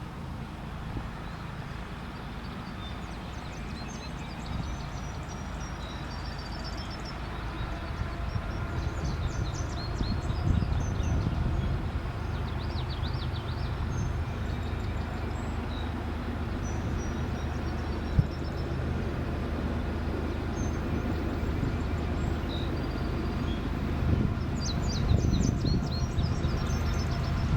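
CSX freight train passing with its diesel locomotives running: a steady low rumble that grows gradually louder, with birds chirping now and then.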